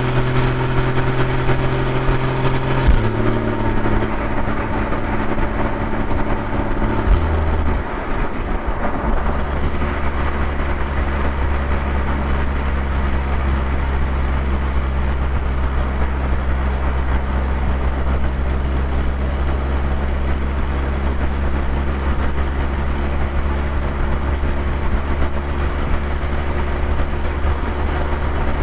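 Porsche 981 Boxster's 2.7 flat-six engine and exhaust running under way. The engine note drops in steps over the first several seconds, then holds a steady low drone.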